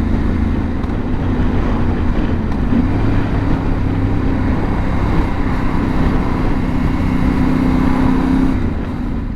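Yamaha Ténéré 700's 689 cc parallel-twin engine running steadily under way, with road and wind noise, the engine note easing off near the end as the throttle closes.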